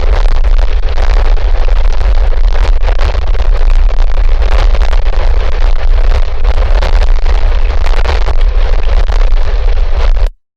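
Strong wind buffeting an outdoor camera microphone: a loud, steady rushing noise with a heavy low rumble, cutting out suddenly near the end.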